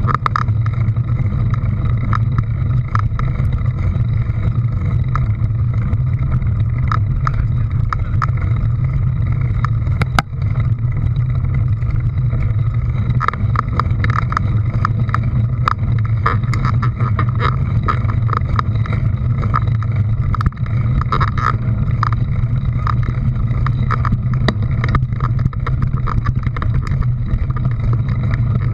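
An engine running steadily, with a strong low hum, over frequent small clicks and rattles.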